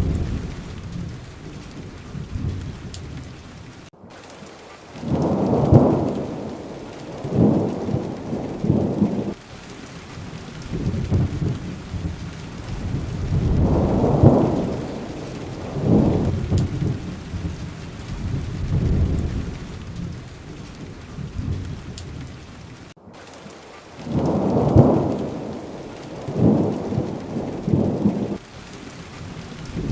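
Steady rain falling, with repeated rolls of thunder that swell and fade every few seconds. The sound cuts out for an instant twice.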